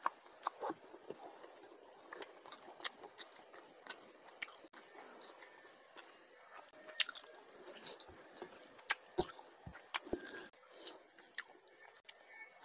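Close-miked chewing and lip-smacking of a person eating a handful of rice and fish curry, with a string of short, sharp wet clicks.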